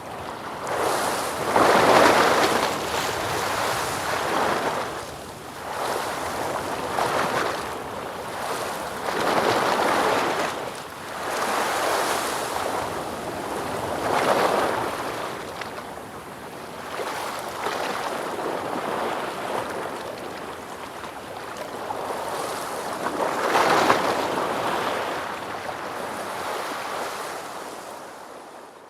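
Ocean waves breaking and washing ashore, the surf swelling and ebbing every few seconds with the biggest breakers about two seconds in and again near the end, then fading out.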